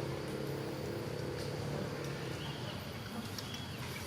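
A steady low motor hum, with a few faint high chirps over it.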